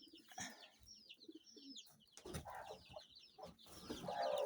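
Kienyeji chicks peeping in many short high chirps, with a mother hen clucking near the end.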